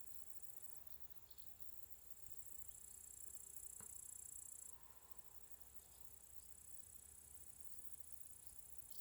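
Faint, steady, high-pitched chirring of insects, crickets or bush crickets, that swells and drops back a few times. There is a single soft click about four seconds in.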